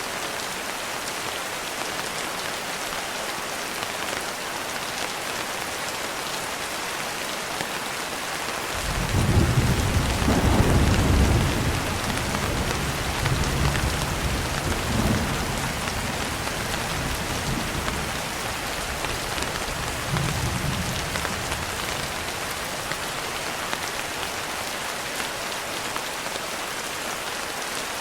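Steady rain falling on a window, with a low roll of thunder that starts suddenly about a third of the way in. The thunder is loudest for a couple of seconds, then rumbles on in two or three weaker swells and fades back under the rain.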